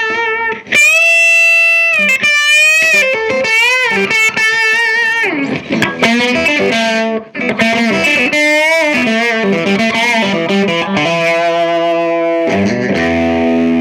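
Electric guitar on its bridge humbucker, played through a 15-watt cathode-biased EL84 valve amp (Earthquake Engineering Atlas15) with a lightly overdriven tone that has a lot of bite. Single-note lead lines with string bends and vibrato, then sustained chords near the end.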